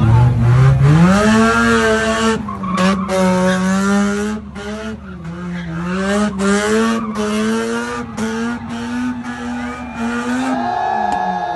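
Mazda RX-8's two-rotor rotary engine revving sharply about a second in and held at high revs while the rear tyres squeal and skid through donuts. The revs drop away near the end.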